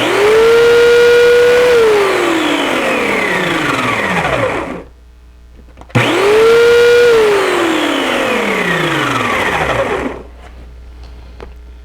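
Sun Joe corded electric chainsaw run free without cutting, twice: each time the motor spins up at once to a steady whine, holds for a second or two, then is let off and winds down with a falling pitch over about three seconds.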